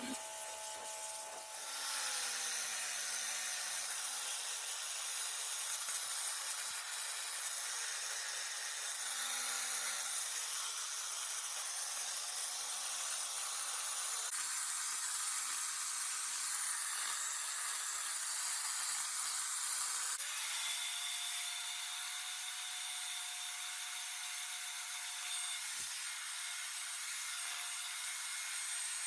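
A power tool working a surface with a steady, hissing scrape, its motor pitch dipping briefly a few times as it is loaded. About twenty seconds in the sound shifts to a smoother, higher hiss.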